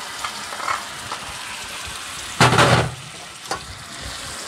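Spice paste (masala) sizzling as it fries in oil in a pan, with a few small clicks. About two and a half seconds in there is a loud half-second rush of noise.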